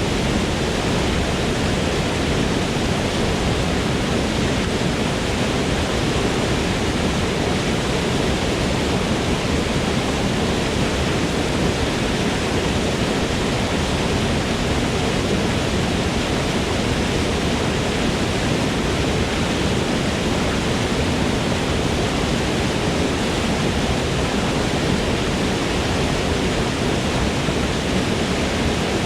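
Waterfall in a forest: a steady, unbroken rush of falling water, fullest in the low range.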